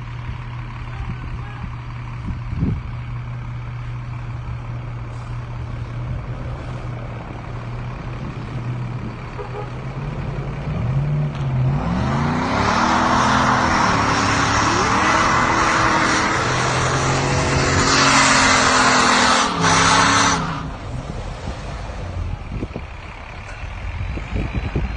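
A vehicle engine idling steadily, then from about ten seconds in revving hard under load, its pitch rising and wavering, with a loud hiss of tyres spinning on snow, until it all cuts off suddenly about twenty seconds in.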